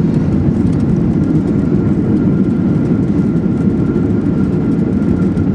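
Steady low rumble of a Boeing 737-800's jet engines and airflow, heard inside the passenger cabin, with a faint steady whine above it.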